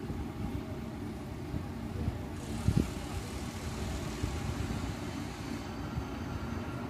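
A train approaches a closed level crossing: a hiss rises from about two and a half seconds in over a steady low rumble, with a single low thump just before the three-second mark.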